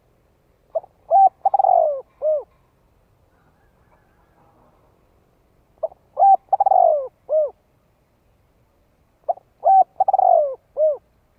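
Spotted dove (cu gáy) cooing: three phrases about three and a half seconds apart, each a couple of short coos, then a longer falling coo and a short final one.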